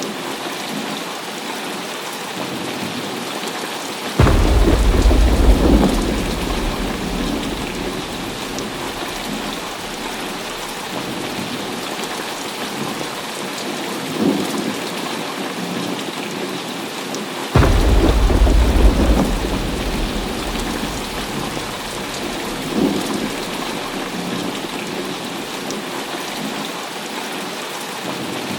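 Heavy rain falling steadily, with two sudden claps of thunder, about four seconds in and again past the middle. Each rumbles low and dies away over two to three seconds, and fainter rumbles come in between.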